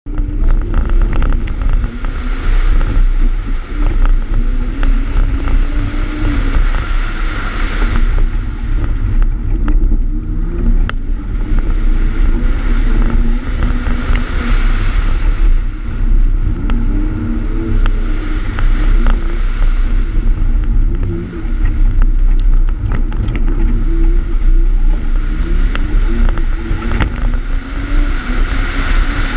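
BMW E36's 2.8-litre M52 straight-six engine running hard, its revs repeatedly rising and falling, with wind noise and many short sharp clicks of gravel and stones striking the car on a loose dirt course.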